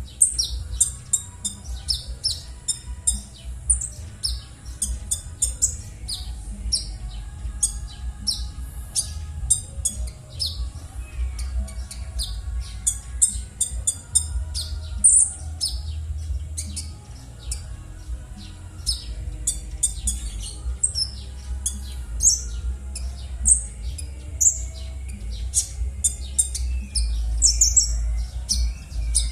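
Konin bird giving its harsh, scratchy call: a long run of short, sharp high-pitched chirps and squawks, some sliding in pitch, over a steady low hum.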